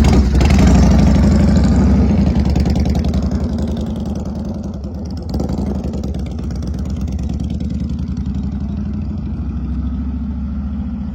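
Motorcycle engine running steadily, loudest at first and easing off over the first few seconds, then picking up a little about five seconds in and holding steady.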